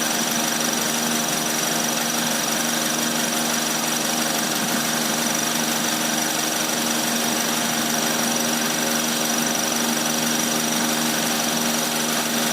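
Rebuilt Proton Iswara 4G13 SOHC four-cylinder engine, fitted with 4G15 pistons, idling steadily, with a thin steady high whine over it.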